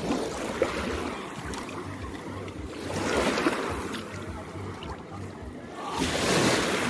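Small sea waves washing onto the beach, each wash swelling and fading about every three seconds, with some wind on the microphone.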